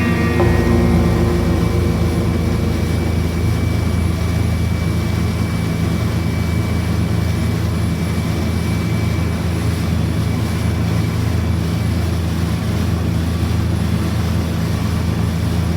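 A boat's engine running steadily, a low, even drone heard from on board.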